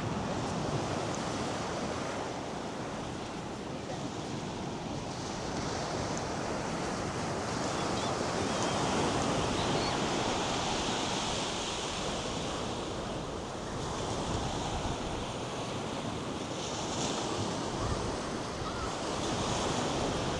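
North Sea surf breaking and washing up the beach, swelling and ebbing every few seconds, with wind buffeting the microphone.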